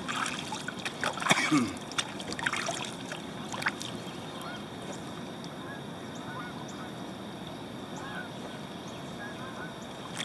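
Waterfowl calling, a series of short honking calls carrying across open water.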